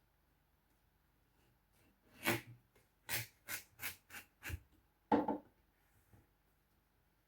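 Knife cutting through watermelon against a cutting board: a series of short scraping strokes starting about two seconds in, then a heavier, duller stroke just after five seconds.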